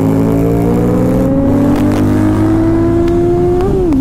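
Kawasaki Z800's inline-four engine pulling under acceleration, its note climbing steadily, then dropping sharply near the end as the rider shifts up a gear.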